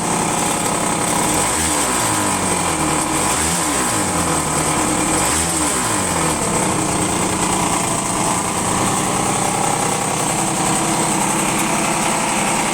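Honda Joker 50 scooter's small two-stroke single-cylinder engine running, blipped three times, with the pitch rising and falling back each time within the first six seconds, then idling steadily.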